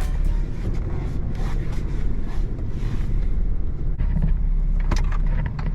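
Steady low rumble of a car running, heard from inside the cabin, with a few faint knocks.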